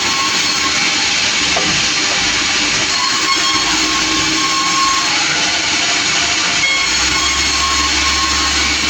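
Sawmill saw running through a log: a loud, steady hissing noise with a faint whine that comes and goes.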